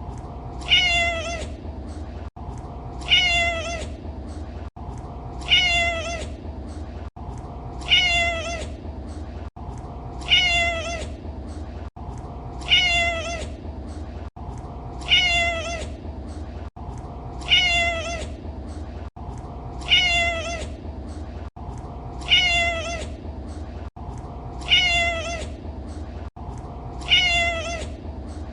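Domestic cat meowing: the same short meow repeated identically about every two and a half seconds, like a loop, over a low steady hum.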